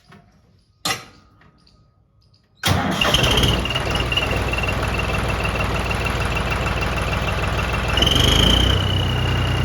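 A tractor's diesel engine starts about three seconds in and runs on, with a bolt-on turbo whistle giving a steady high whistle over the engine. Near the end the engine is revved briefly and the whistle rises with it. A sharp knock sounds about a second in.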